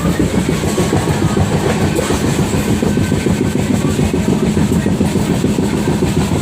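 A train running along the track: a steady, loud rumble of wheels on rails with a constant rattle.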